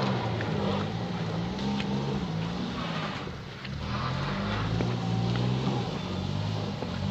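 Vehicle engine revving up and down over and over as the wheels spin and slip on a slushy, snow-covered road, struggling for grip.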